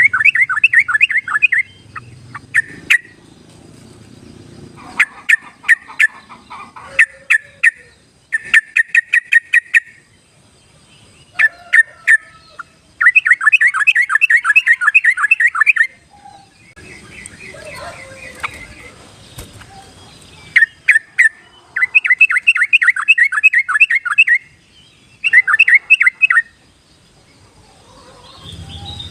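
Yellow-vented bulbul song: bubbly, chattering phrases of one to three seconds, repeated again and again with short pauses between. It is played as a lure call to get a shy or wild caged bulbul to start singing.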